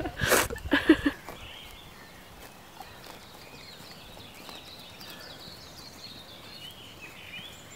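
Horse sounds in the first second, a sharp noisy snort-like burst among hoof clops, then quiet outdoor background with faint high chirps.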